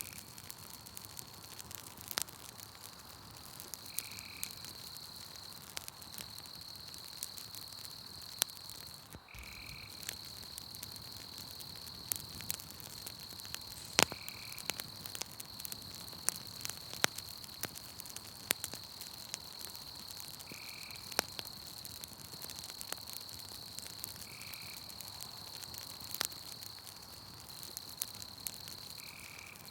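Campfire crackling with scattered sharp pops, one loud snap about halfway, over a steady high-pitched trill of night insects. A short call repeats about every four to five seconds.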